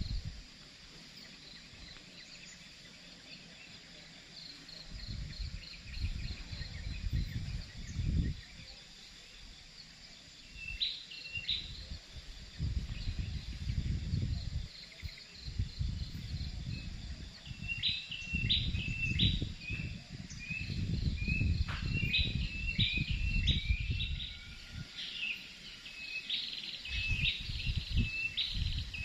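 Birds calling in short, sharp repeated chirps, a few at first and then many in quick succession from about halfway through, over a faint steady insect drone. Irregular low rumbles swell and fade underneath.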